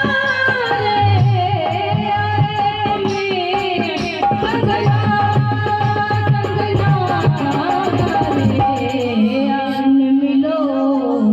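Dholak drumming a steady folk rhythm under a bending melody line. The drum strokes thin out briefly near the end and come back.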